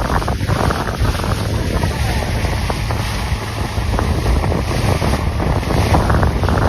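Heavy wind buffeting the microphone over rushing, splashing water as a tube is towed at speed behind a boat.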